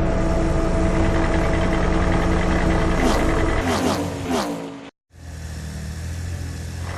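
Cartoon motor-vehicle engine sound effects. An engine runs steadily, then falls in pitch about three to four seconds in and cuts off abruptly just before five seconds in. A second engine sound follows and runs steadily.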